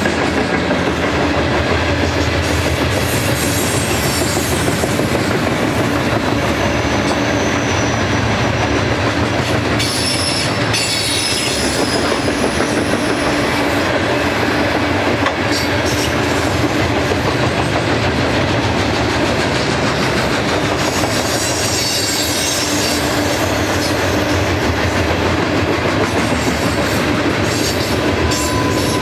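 Loaded ballast hopper cars of a long freight train rolling past: a steady rumble and clatter of steel wheels on rail, with thin high wheel squeals a few times in the middle.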